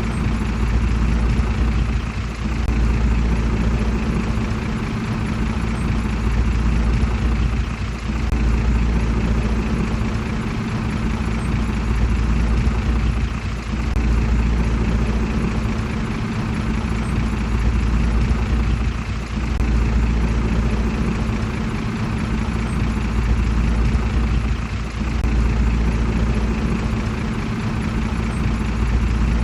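Komatsu D31PX bulldozer's diesel engine running, its level swelling and easing every five or six seconds.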